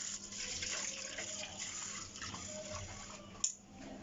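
Water running from a tap and splashing. A sharp click comes about three and a half seconds in, and after it the water sound falls away.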